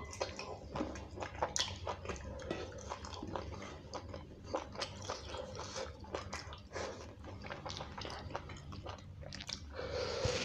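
Close-miked wet chewing and mouth noises of a person eating beef curry and rice by hand, with many small, sharp smacking clicks.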